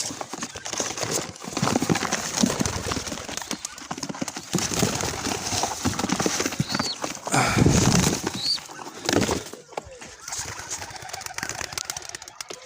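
Homing pigeons' wings clattering and flapping as the flock bursts out of an opened basket and takes off, a dense rapid fluttering that is loudest about two-thirds of the way in. A few short high chirps sound over it.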